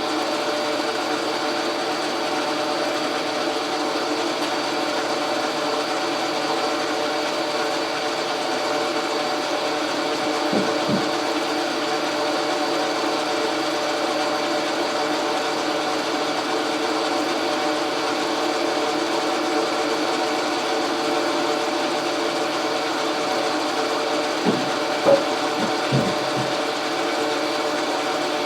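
Logan metal lathe running steadily under power, its motor and gearing giving a constant hum with several steady tones. A few faint knocks about ten seconds in and again near the end.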